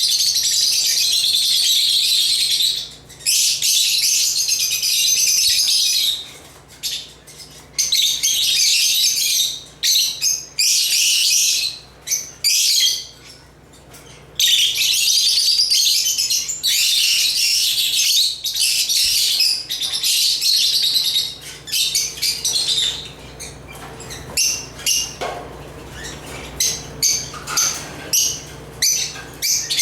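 Lovebirds (Agapornis) chirping and chattering in long runs broken by short pauses, turning to rapid separate chirps near the end.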